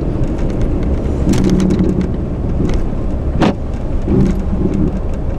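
A car's anti-lock brakes grabbing under full braking on an icy road, the ABS pump buzzing and clicking in short spells over steady tyre and road rumble inside the cabin.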